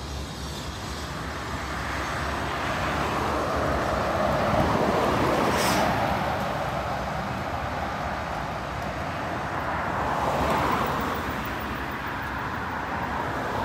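Road vehicles passing with tyre and engine noise, swelling twice: loudest about four to six seconds in, then again around ten seconds.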